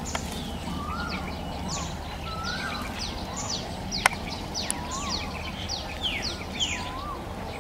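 Birds calling outdoors: many quick, high calls that sweep downward, repeated over and over, with a few lower rising-and-falling notes over a steady low background hum. A single sharp click about four seconds in.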